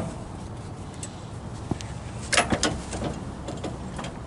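Tow-dolly ratchet strap being worked loose: a quick run of sharp metallic clicks and rattles about two seconds in, with a few fainter single clicks before and after, over a low steady hum.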